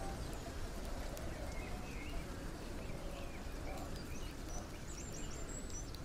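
Small bird chirping: short scattered notes, then a quick run of four or five high chirps near the end, over a steady low rumble and hiss.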